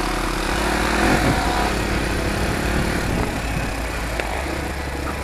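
Dirt bike engine running on a rough muddy track, its pitch shifting up and down about a second in.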